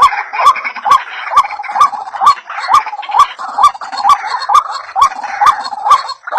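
White-breasted waterhen (ruak-ruak) calling: a fast, even series of short rising notes, about two a second, each with a sharp click.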